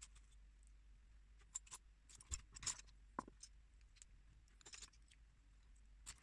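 Small plastic building bricks clicking as they are handled and pressed together: a quick cluster of light clicks about two to three seconds in, then a few single clicks later.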